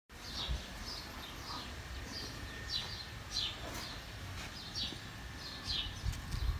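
A small bird chirping over and over, short falling chirps about twice a second, over a low rumble.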